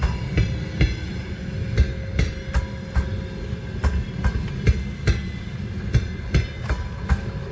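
Passenger train cars rolling past at low speed, their wheels clacking over rail joints and points in an irregular beat of two or three knocks a second over a steady low rumble.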